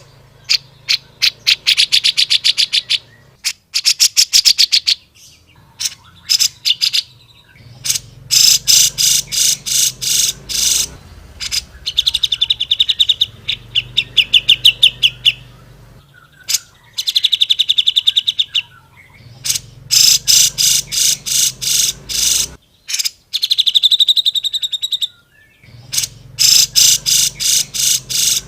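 Cucak jenggot (grey-cheeked bulbul) singing vigorously: loud phrases of rapid repeated sharp notes and fast rattling trills, each a few seconds long, separated by short pauses.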